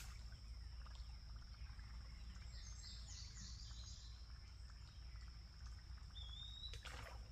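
Faint outdoor creek ambience: a steady high insect drone, with a few short bird chirps about halfway through and one rising chirp near the end, over a low rumble.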